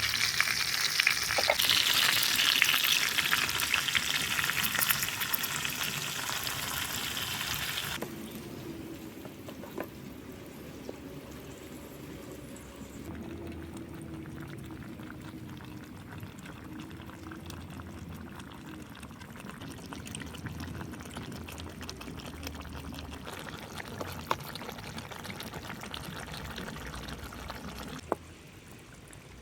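Food frying and sizzling in hot oil, a loud steady hiss that cuts off abruptly about eight seconds in. After that comes a much quieter steady cooking sound with a few light clicks.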